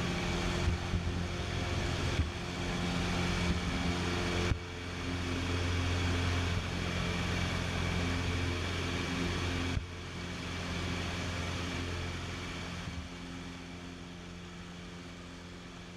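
An engine running steadily with a low hum, broken by two abrupt cuts and fading out near the end.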